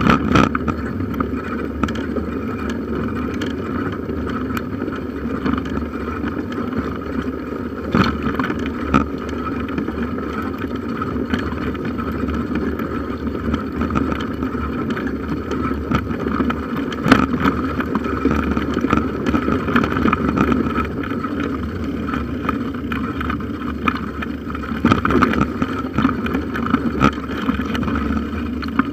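Bicycle riding over a forest trail heard through a handlebar-mounted camera: a steady rumble and rattle of the bike and tyres, with occasional sharp knocks from bumps, a few clustered near the end.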